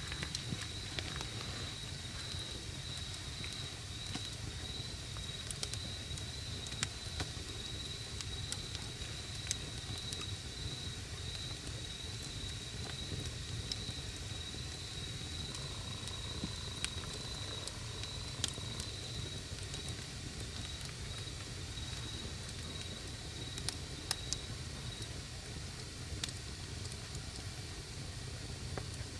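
Wood fire crackling, with scattered sharp pops over a low rumble of the flames. An insect trills steadily throughout and stops near the end.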